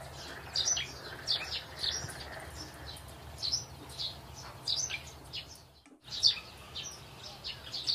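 Birds chirping in the background, short high chirps repeated every half second or so, over a faint low steady hum. The sound drops out briefly about six seconds in.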